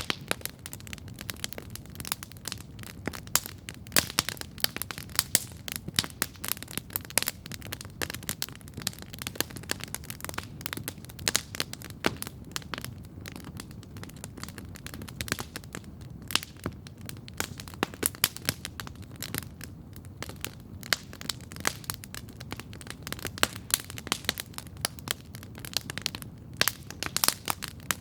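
Wood campfire crackling steadily: dense, irregular snaps and pops over a low, steady rumble.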